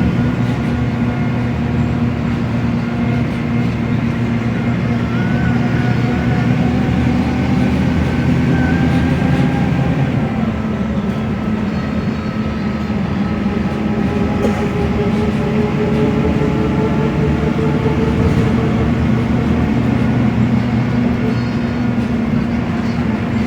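Mercedes-Benz OM906LA inline-six turbo-diesel of a rear-engined city bus with a ZF Ecomat automatic gearbox, running steadily under way, with thin whining tones over the engine note. The engine note shifts about ten seconds in.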